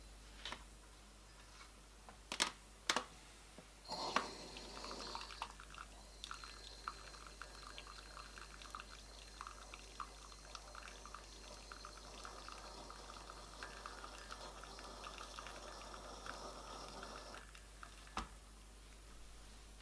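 Espresso trickling and dripping from a La Pavoni lever machine into a cup for about thirteen seconds, then stopping. Two sharp clicks come shortly before it starts and another just after it ends.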